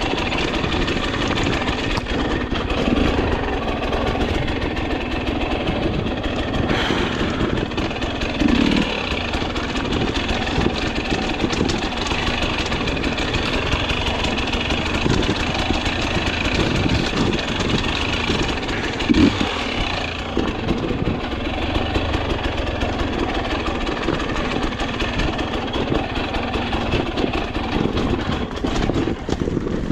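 Dirt bike engine running steadily on a trail ride, with a couple of brief revs.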